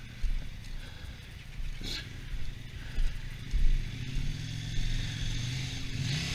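Motorcycle engine running at low speed, its steady tone growing stronger in the second half, over uneven low wind rumble on the microphone. A brief sharp click about two seconds in.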